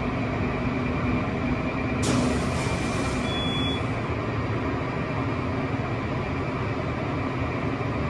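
Geared traction incline elevator car running, a steady low rumble and hum. About two seconds in a hiss starts suddenly and fades over the next two seconds, with a brief high beep partway through.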